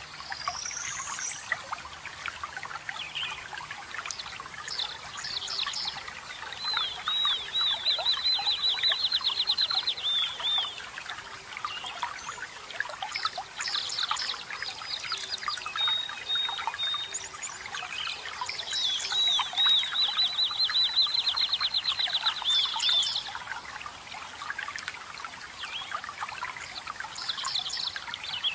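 Forest birds singing over steadily trickling water. Two long, rapid trills about a third of the way in and again past the middle are the loudest calls, with shorter chirps and whistled phrases between.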